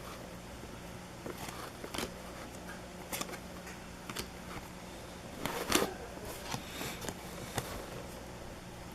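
Baseball card packs being opened and handled: short, scattered bursts of wrapper crinkle and card clicks, the loudest a little past halfway, over a steady low hum.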